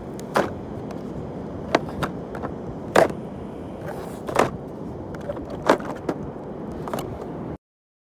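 Sharp plastic clacks, about seven at irregular moments, from a hollow clear-plastic toy car filled with small toys as it is pushed and bounced over sand, over a steady rushing background of wind and surf. The sound cuts off abruptly near the end.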